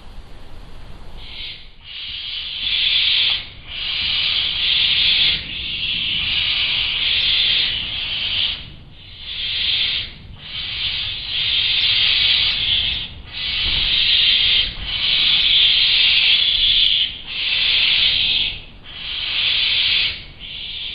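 Barn owl nestlings hissing in the nest box: a long run of harsh hisses, each lasting one to two seconds with short breaks between, starting about a second in. This is the snoring-like begging call of barn owl chicks.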